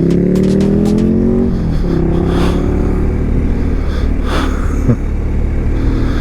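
Motorcycle engine accelerating, its pitch climbing for about a second and a half, then dropping sharply and settling into steady running at a lower pitch.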